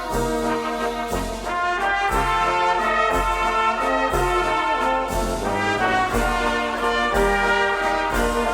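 Brass band music in the style of traditional German folk music, trombones and trumpets playing held melody notes over a regular bass beat about once a second.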